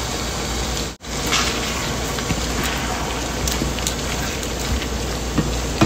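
Beef and vegetable stir-fry sizzling and bubbling in a nonstick skillet, just after hot water has been added, with a spatula stirring it now and then. The sound drops out for an instant about a second in.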